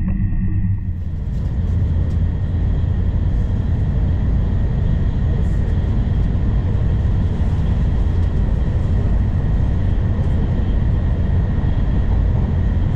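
Steady running noise of an N700 series Shinkansen heard from inside the car at speed: a deep rumble with a rushing hiss over it and a faint steady whine. After a brief dip about a second in, the hiss fills out and then holds steady.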